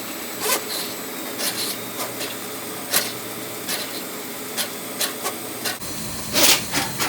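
Electric drain-cleaning machine running, its spinning steel cable rasping and clicking against the inside of a drain pipe at irregular intervals. About six seconds in, the running sound shifts lower, followed by a louder scrape.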